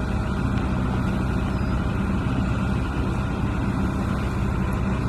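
Motorboat engine running steadily under way, a constant low drone with a rushing hiss over it.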